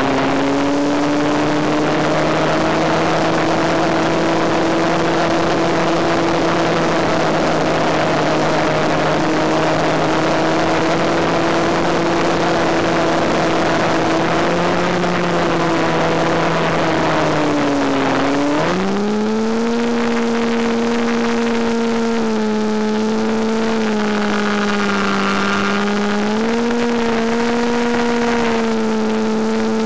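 Brushless electric motor and propeller of a Penguin FPV model airplane running steadily with a rush of air. About eighteen seconds in the pitch drops sharply, then climbs back and holds a new, slightly wavering note.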